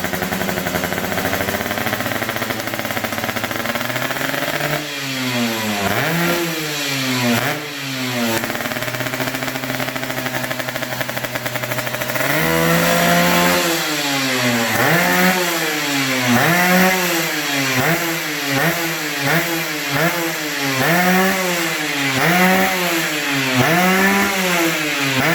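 Yamaha F1ZR two-stroke engine breathing through an ABRT20 aftermarket racing exhaust, idling steadily, then revved in quick blips. From about halfway on the revs rise and fall over and over, about one blip every second and a half.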